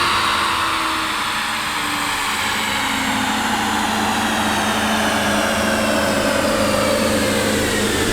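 Twin-turbo C8 Corvette winding down on a chassis dyno after a full-power pull: a high whine falls slowly and steadily in pitch as the rollers and drivetrain spin down, while the V8 idles underneath.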